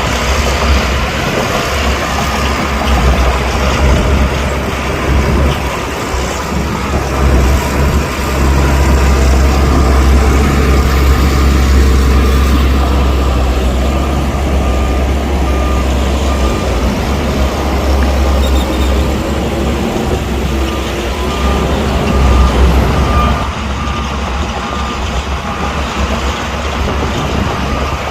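Heavy diesel earthmoving machinery running hard with a deep, steady engine rumble. A reversing alarm beeps repeatedly through the second half, and the engine noise drops a little near the end.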